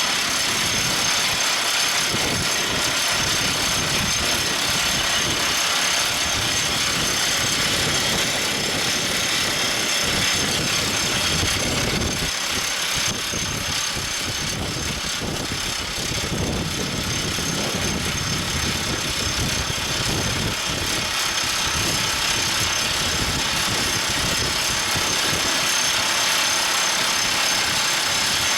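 Everdigm ECD45E top hammer drill rig running: a steady machine din of engine and mechanical noise, a little quieter around the middle.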